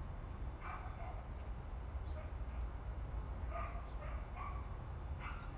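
A dog barking in short, separate barks, about five times, over a steady low background rumble.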